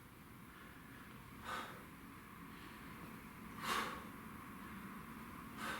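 A man breathing out hard, three short, sharp breaths about two seconds apart, the middle one loudest. They are breaths of exertion during a seated core exercise.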